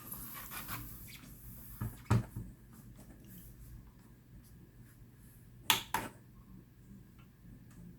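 A few light knocks and clicks of a replica model starship and its stand being handled and set on a weighing scale: one about two seconds in, then two close together near the six-second mark.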